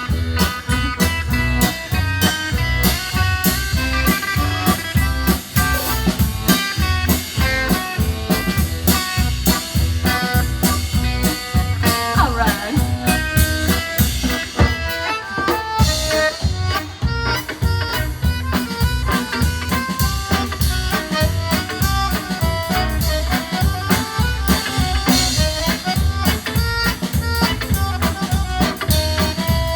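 Live folk dance band playing an instrumental passage with no singing: a drum kit keeps a steady beat under guitar and accordion melody lines.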